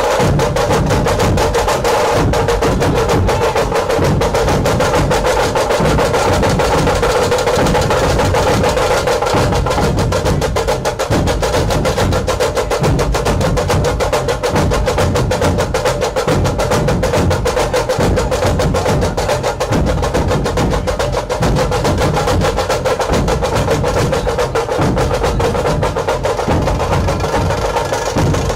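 Fast, dense percussion music: drums and sharp wood-block-like strokes played in a rapid, continuous beat, with a steady tone underneath.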